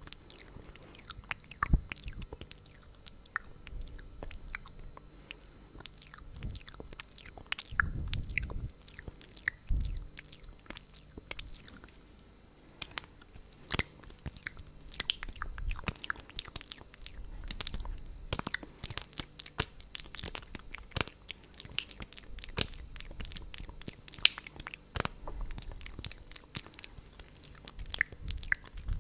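Close-miked wet mouth sounds from sticky lip gloss: lips smacking and parting in many sharp, irregular clicks and pops.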